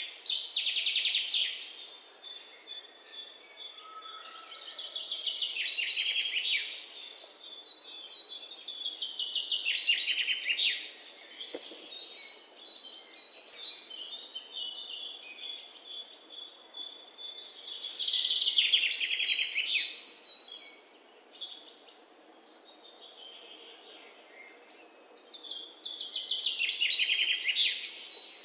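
Birds singing: a fast trill that drops in pitch, repeated every few seconds, with thinner high chirps in between.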